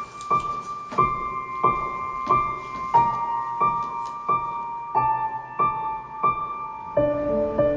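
Gentle piano music: a high note struck over and over at a slow steady pace, stepping down a little, with lower notes joining near the end.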